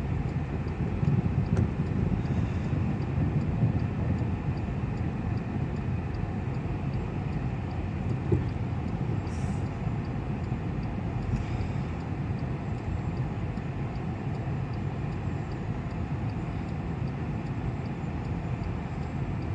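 Car engine running under load as the car creeps out of snow, heard from inside the cabin as a steady low rumble that eases slightly after the first few seconds.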